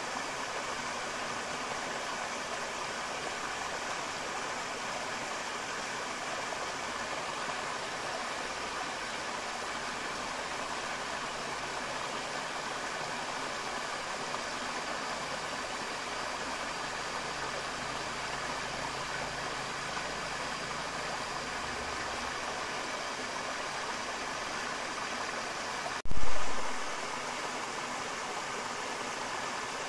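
Forest river flowing steadily, an even rushing of water. Near the end a single sudden loud thump, with a low rumble dying away over about a second.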